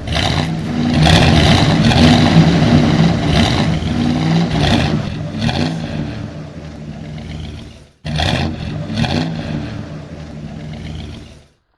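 Car engine revving and accelerating, loud, with a sudden break about eight seconds in and fading out near the end.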